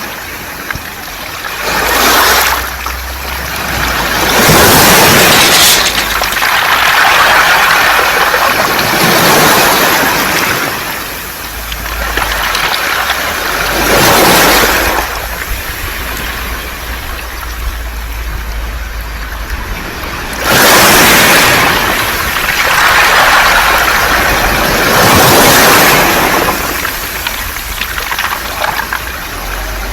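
Waves washing in and drawing back over round beach pebbles, the stones rattling and hissing as each surge comes and goes, about every two to five seconds.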